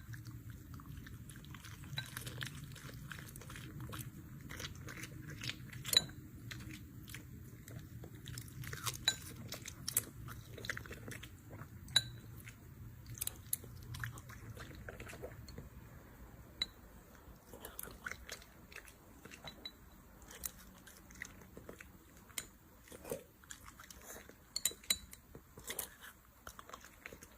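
Puppy eating, crunching and chewing its food with irregular sharp crunches and clicks.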